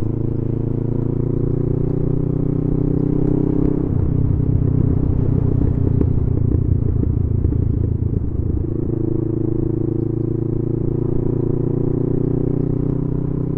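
Motorcycle engine running at a steady road speed while being ridden. The engine note goes rough and uneven for a few seconds in the middle, then settles back to steady.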